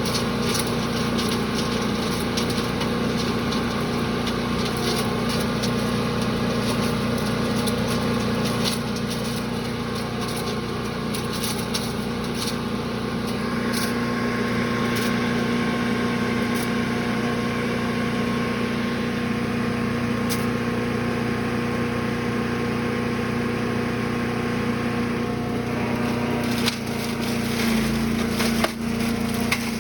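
Brush Master chipper-shredder's small gas engine running steadily, with scattered sharp ticks and crackles of material going through the machine. About two seconds from the end the engine note drops and there are a couple of loud knocks as it takes a load.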